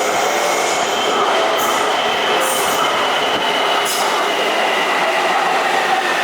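Taipei MRT C321 electric metro train moving along the platform at Xinpu station, a steady running noise with a faint whine held on a few pitches. Short high hissing bursts come about one and a half, two and a half and four seconds in.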